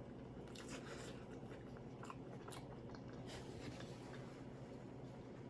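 A person chewing food close to the microphone: faint, scattered wet mouth clicks and smacks.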